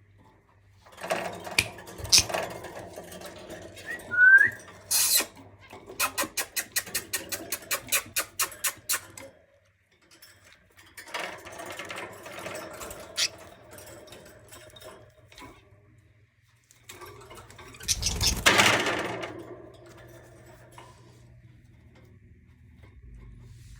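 Budgerigar giving a short rising chirp among rustling and rattling from its cage, including a run of rapid, even clicks about five a second, and a loud rustling rush near the end.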